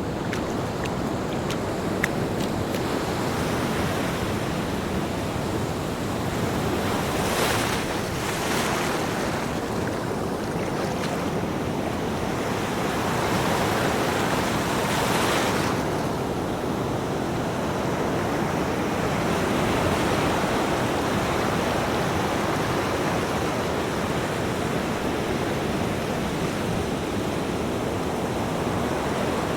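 Ocean surf: waves breaking and washing in a continuous rush, with a few louder surges of spray now and then.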